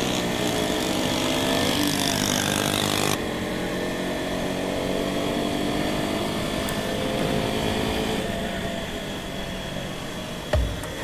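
Motorcycle engine running under way, its pitch rising and falling with the throttle. The sound changes abruptly about three seconds in, and a short thump comes near the end.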